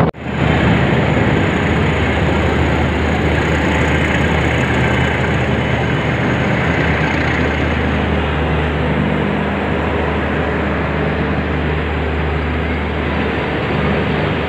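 Rake of LHB passenger coaches rolling slowly past alongside a station platform as it is shunted in, a steady rumble and rattle of wheels on rail over a low, steady drone.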